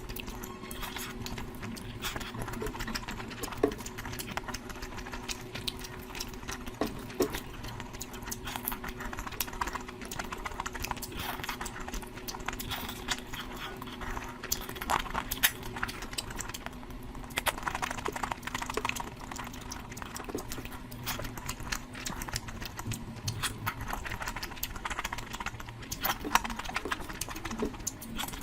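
Close-miked eating sounds of someone eating curry: a steady run of small wet clicks and smacks from chewing and handling the food, over a faint low hum.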